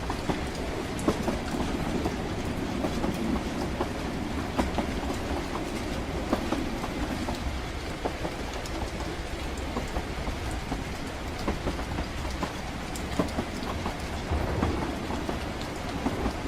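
Moving train carriage: a steady rumble of the wheels on the rails with irregular clicks and knocks.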